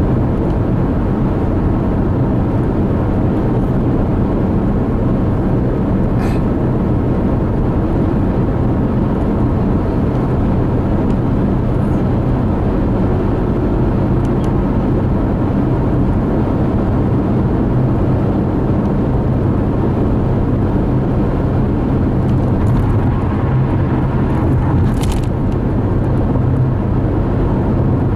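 Steady road and engine noise inside a car cruising on a freeway, with two faint brief clicks, one about six seconds in and one near the end.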